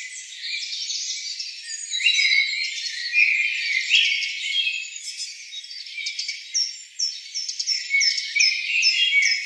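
Small birds chirping and twittering, many calls overlapping. Near the end, a run of short, high, falling notes repeats several times a second.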